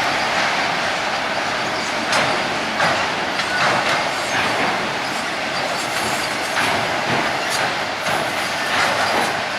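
Freight train cars, the multilevel autoracks of a vehicle train, rolling past: a steady rushing rattle with irregular clacks from the wheels.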